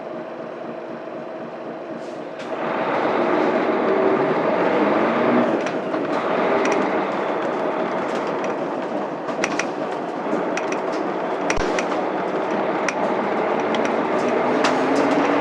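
Cabin sound of a Mitsubishi Fuso Aerostar bus's 6M70 straight-six diesel. It runs low and steady at first, then from about two and a half seconds in grows louder and rises in pitch as the bus accelerates, and rises again near the end. Light rattles and clicks come from the bus body.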